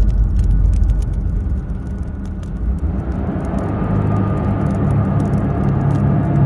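A low, steady rumble with many faint crackles over it.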